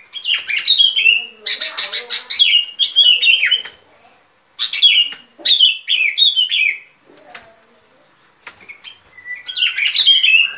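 Sooty-headed bulbul (bông lau) singing: three bouts of quick, chirping phrases, the first from the start, the second around five seconds in, the third near the end.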